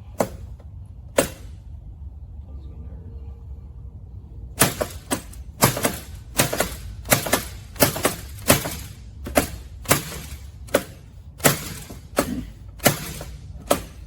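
Hammer blows on metal: two single strikes, then from about four and a half seconds in a steady run of sharp, ringing blows at about two a second.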